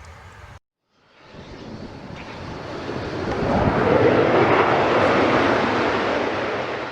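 Jet aircraft passing close by: after a brief faint background hum and an abrupt cut, a rushing engine noise builds to a peak about four seconds in, then slowly fades.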